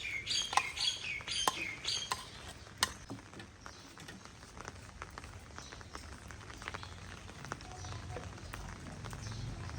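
A small bird chirping about six times in quick succession over the first two seconds, each chirp a short falling note, followed by scattered light taps and clicks.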